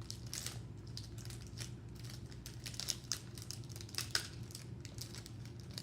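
A snack wrapper being crinkled and torn open by hand, an uneven run of rustles and crackles.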